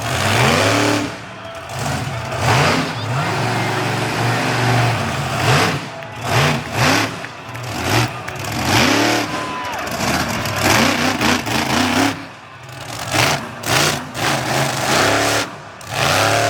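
Monster truck engines revving hard in repeated surges, the pitch climbing and falling with each blip of the throttle.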